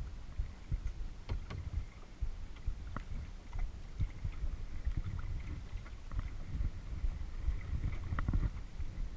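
Kayak on calm water: small splashes and drips from the paddle and water lapping at the hull, as scattered light ticks. Under them runs a steady low rumble on the camera microphone.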